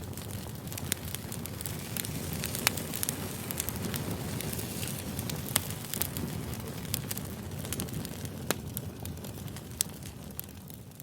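Campfire crackling: a steady low rush of burning wood with sharp pops scattered irregularly throughout.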